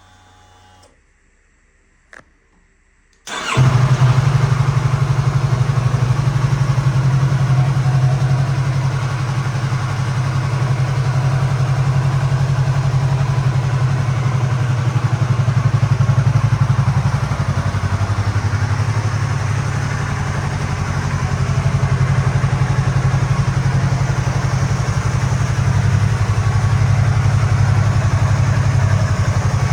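Yamaha YZF-R3's 321 cc parallel-twin engine starting up about three seconds in, after a short click, then idling steadily.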